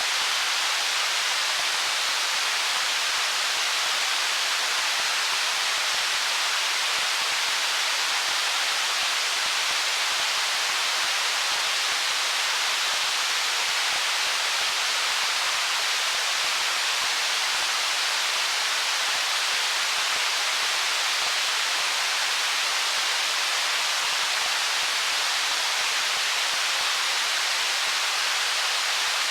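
Steady rushing of a stream over rocks: an even, unchanging hiss with little low rumble and no distinct splashes.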